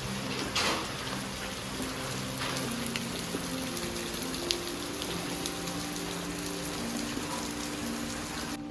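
Steady rainfall, with individual drops striking close by and one louder splash just over half a second in, under soft sustained background music.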